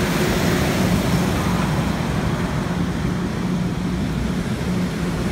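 Steady low hum from a Metra bilevel commuter train standing at the platform, over a wash of street traffic noise.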